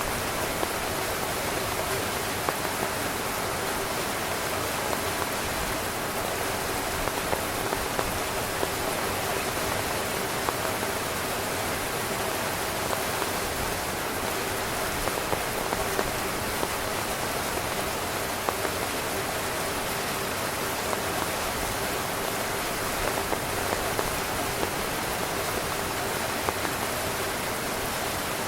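Heavy rain falling steadily on a tent, a constant hiss with occasional louder drops standing out.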